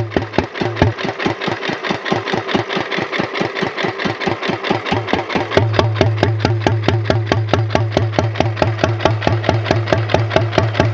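A 1929 Economy XK 3 1/2 hp single-cylinder flywheel engine running steadily on gasoline. Being throttle governed, it fires on a regular, even beat rather than hitting and missing. It gets a little louder about halfway through.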